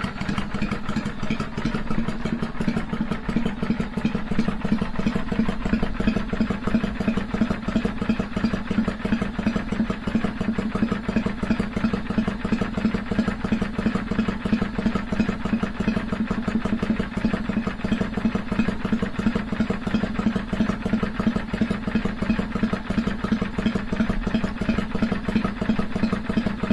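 Kawasaki Vulcan 400 V-twin motorcycle engine idling steadily, with the uneven loping beat known in Japan as sanbyoshi ('three-beat'), a rhythm the engine is set up to give at idle.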